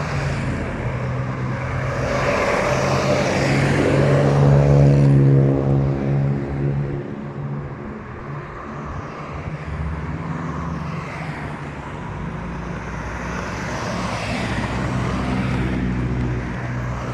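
Motor vehicles of a convoy driving past one after another. The engine sound swells to its loudest about five seconds in and falls in pitch as it moves away, and a second vehicle swells past near the end.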